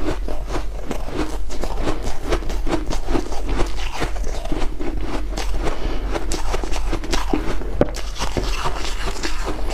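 White ice being crunched and chewed: a dense, unbroken run of crisp crackling crunches, with a steady low hum underneath.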